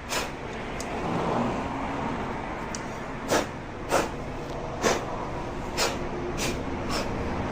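Steady workshop noise with about seven sharp clicks or knocks at uneven intervals, most of them in the second half.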